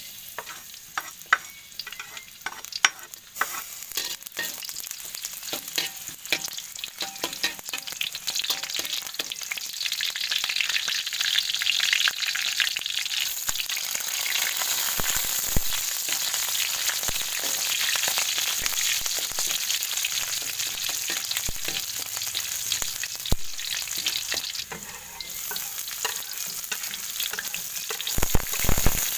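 Sliced garlic frying in hot oil in a wok, starting as scattered crackles and building into a steady sizzle. Shallots and chopped chilies are scraped in from a cutting board with a metal spatula, adding a few sharp knocks, the loudest near the end.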